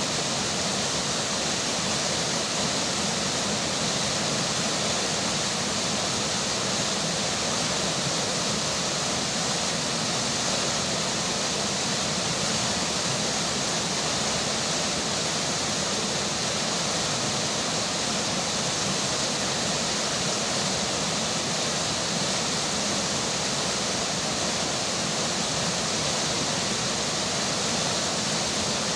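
Steady rush of flowing river water mixed with falling rain, an even, unbroken hiss with no separate sounds standing out.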